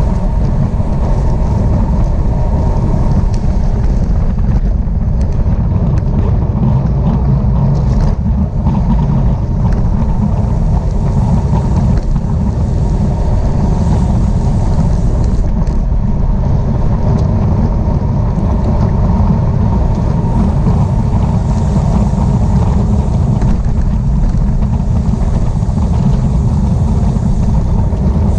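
Steady, loud wind rumble on the microphone of a camera moving at speed in a bicycle road race.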